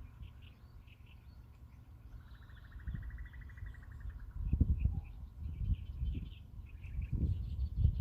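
Wild birds chirping in short repeated calls, with one fast buzzing trill for about two seconds in the middle. Irregular low rumbles come and go beneath them, strongest about halfway and near the end.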